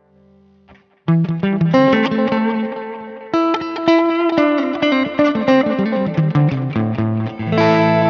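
Electric guitar played through the Neural DSP Mesa Boogie Mark IIC+ amp-modelling plugin, with a slightly overdriven tone: a note dies away, then about a second in a fast run of picked notes begins and carries on.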